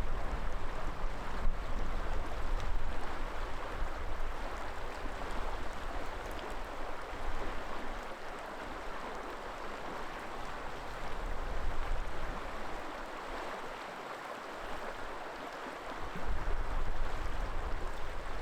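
River water flowing in a steady rushing stream. Wind buffets the microphone as a low rumble for roughly the first half, drops away, and returns near the end.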